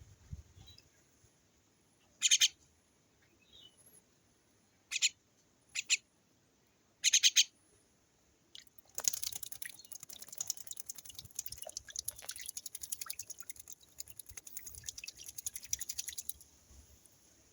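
A small bird gives four short harsh chirps, then splashes and flutters in water for about seven seconds, a dense rapid spattering, while bathing.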